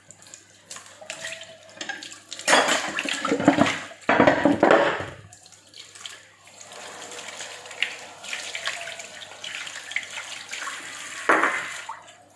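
Tap water running and splashing into a kitchen sink. It comes in heavy splashes between about two and a half and five seconds in, then runs more gently, with one more splash near the end.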